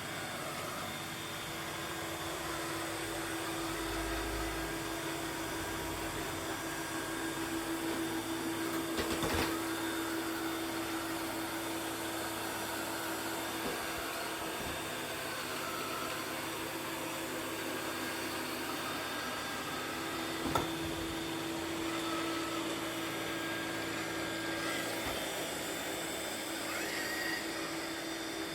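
Eufy Clean X8 Pro robot vacuum running on the second-strongest of its four suction settings: a steady whir with a low hum, broken twice by a brief knock.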